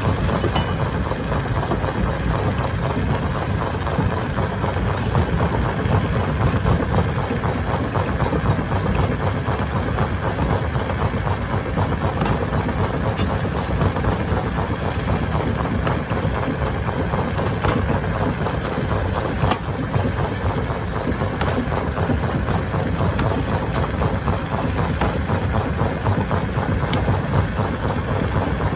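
Stone crusher machine running steadily with a heavy, continuous mechanical rumble, with a few sharp clicks scattered through it.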